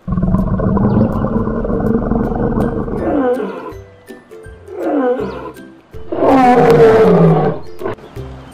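Lion growling low for about three seconds, then roaring three times, the last roar the longest and loudest.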